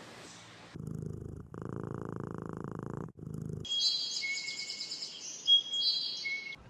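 An animal purring in a low, fast-pulsed rumble for about three seconds, then a bird chirping and trilling in high notes until near the end.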